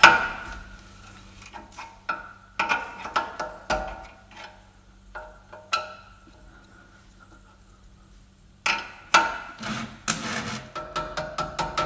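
Steel tools knocking and clinking against a seized steering-link nut as it is worked loose; the knocks ring briefly like struck metal. Near the end comes a fast run of clicks.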